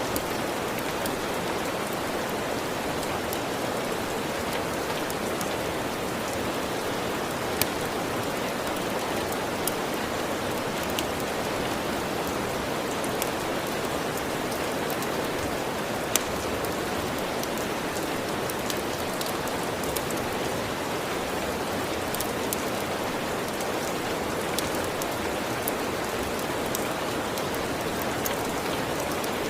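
Steady, even rain, with scattered sharp crackles and pops from a wood fire; two louder pops come about a quarter and about halfway through.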